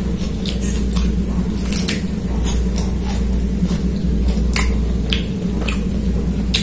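Close-miked eating sounds: wet, squishy chewing of chicken curry and rice eaten by hand, with short sharp smacks and clicks about once a second.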